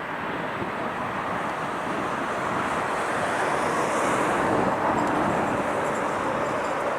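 Rushing noise of a passing vehicle, swelling to its loudest about four seconds in and easing off near the end.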